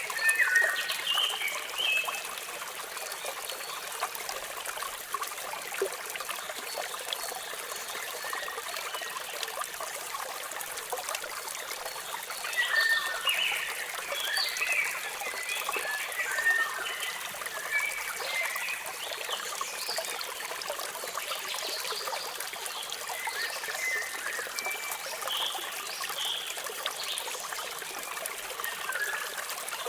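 Running water making a steady hiss, with birds chirping in short, quick calls over it, busiest about a second in and again around the middle of the stretch.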